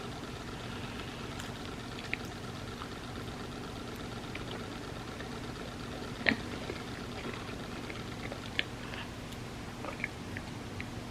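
Close-miked eating of a crepe cake: a few sharp mouth and eating clicks, the loudest about six seconds in, over a steady low hum.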